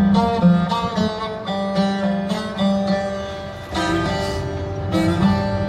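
Instrumental introduction of a Turkish folk song: a plucked long-necked lute playing a melody over a sustained low note.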